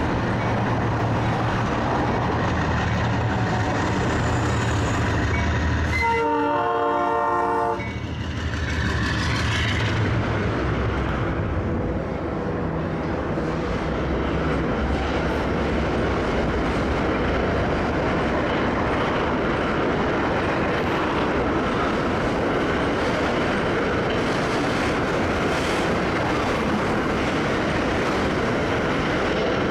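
Diesel freight train passing: the locomotive's engine drone, one air-horn blast of about two seconds around six seconds in, then the steady rolling noise of the freight cars going by on the rails.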